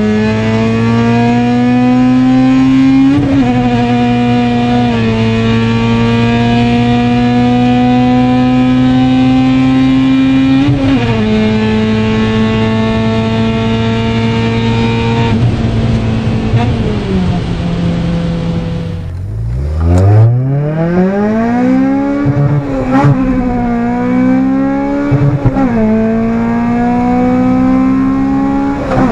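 Honda K20 inline-four engine pulling under load, its pitch climbing steadily with drops at upshifts about 3, 5 and 11 seconds in. Past the middle the revs fall away, then a fast sweep upward and a few quick rev blips, before it pulls steadily again near the end.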